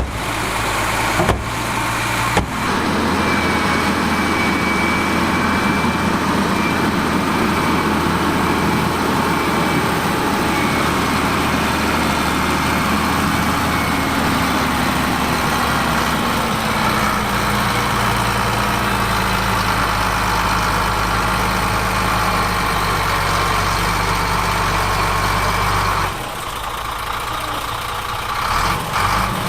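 Heavy construction-machine diesel engine running steadily under work. Partway through, its pitch falls gradually, and the sound changes abruptly a few times.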